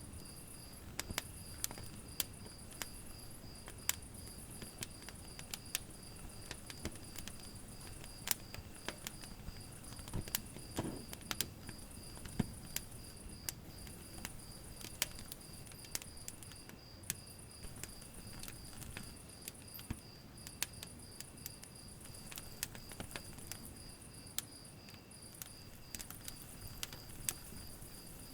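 Wood fire in a fireplace crackling, with irregular sharp pops over a soft low hiss. Behind it a steady high-pitched chirp pulses evenly, about twice a second, with a higher trill that comes and goes.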